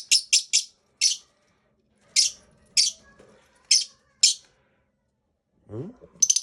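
A lovebird giving short, sharp, high-pitched chirps: a quick cluster of four or five at the start, then single calls every half second to a second, breaking into a fast chattering run just before the end.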